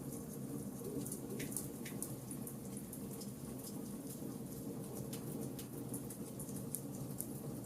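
Burning charcoal crackling, with many small, sharp pops scattered irregularly over a steady low rush.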